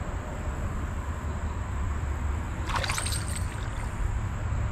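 Steady outdoor noise of wind on the microphone and moving water, with a brief splashing burst about three seconds in.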